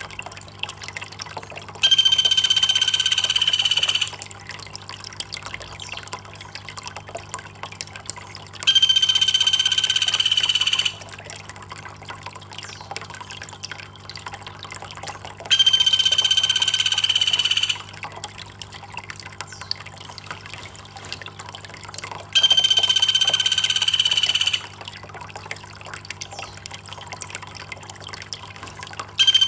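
Trickling water under a long, steady, high call with a clear pitch, each about two seconds long. The call comes four times at even spacing, about every seven seconds, and starts again at the end; it is a bird or insect call from a songbird-training recording.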